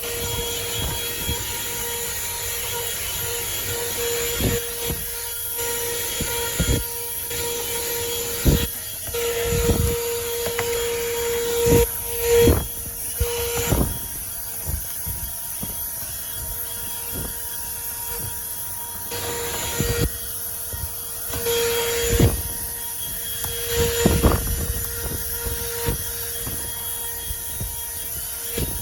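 Handheld cordless car vacuum running with a steady whine and hiss, with irregular knocks and scrapes as the nozzle is worked over the car's interior.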